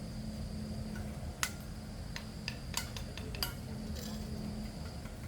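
A run of sharp clinks and taps, about eight in two seconds, over a steady low hum and a thin, high, steady insect-like whine.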